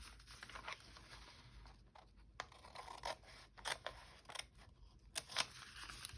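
Scissors snipping through a thin brown paper bag in a series of short, irregularly spaced cuts.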